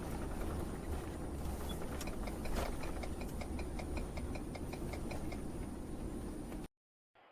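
Steady road and engine rumble inside a moving car, with a fast, even ticking of about four or five clicks a second for roughly three seconds in the middle. The sound cuts off abruptly near the end.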